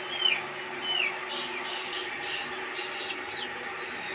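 Aseel chicks peeping: a run of short, high, downward-sliding peeps, two clearer ones in the first second and fainter ones after.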